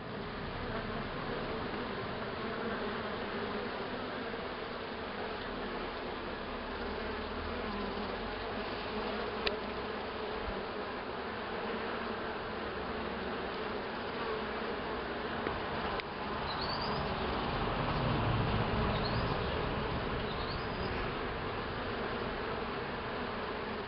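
Honeybee colony humming: a dense, steady buzz of many bees. A click sounds once near the middle, and a few short, high rising chirps come a little later.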